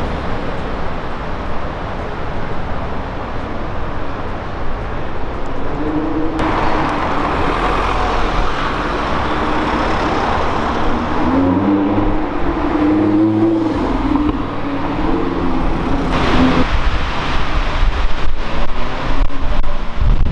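Supercar engine in street traffic. Over a steady traffic noise, an engine note rises and falls in pitch from about six seconds in, and the sound grows louder over the last few seconds.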